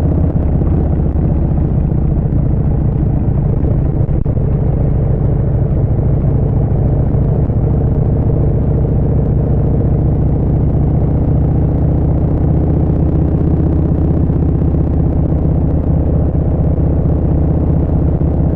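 Harley-Davidson Street Bob 114's Milwaukee-Eight 114 V-twin running through a Vance & Hines Short Shots exhaust, cruising at a steady engine speed.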